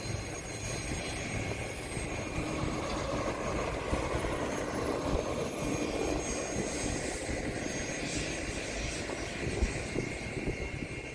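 Aircraft engine noise: a steady roar that swells a little through the middle, with a thin high whine over it.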